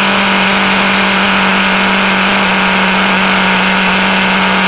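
Traxxas T-Maxx nitro RC engine running steadily at a constant high-pitched buzz, holding speed on its own with the glow-plug igniter disconnected after a wet glow plug was replaced.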